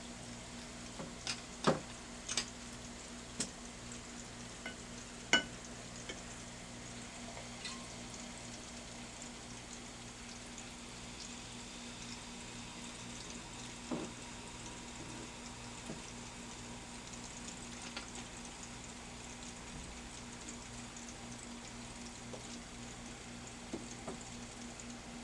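Baking soda and vinegar fizzing in a glass as the foam bubbles up, a faint steady crackle. A few sharp clicks in the first few seconds, the loudest two about two and five seconds in.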